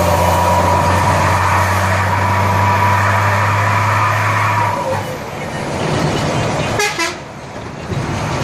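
BMC Pro 625 truck with a 'kurt' (wolf) exhaust giving a steady horn-like tone over the running engine, which stops about five seconds in. A short sharp pitched sound follows about seven seconds in.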